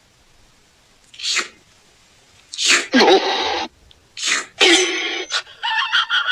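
Cat sneezing, several sharp sneezes in a row, followed near the end by a quick stutter of short pulses.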